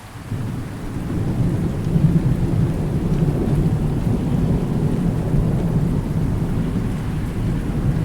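Rolling thunder over steady rain: after a brief lull at the start, a deep rumble swells about two seconds in and keeps rolling.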